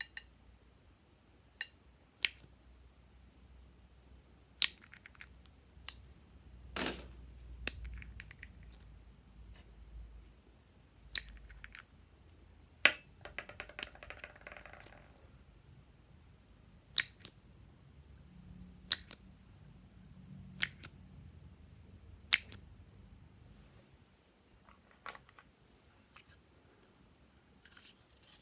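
Glossy slime being mixed and pressed by hand, giving irregular sharp, sticky clicks and pops a second or a few seconds apart.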